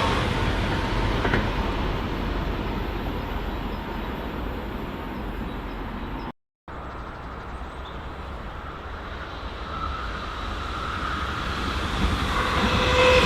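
A train rumbling past on the tracks, fading as it moves away. After an abrupt cut, another train approaches, its noise building with steady tones coming up near the end.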